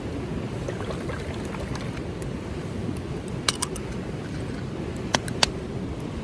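Steady low rushing of a river flowing. A few sharp clicks cut through it: two together about halfway through, and three more close together near the end.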